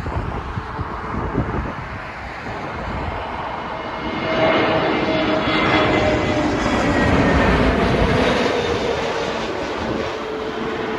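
British Airways Airbus A320 jet airliner coming in to land: its engine noise swells about four seconds in, with a rushing sound and whining tones that drift slowly down in pitch as it passes, then eases slightly. Wind gusts on the microphone at the start.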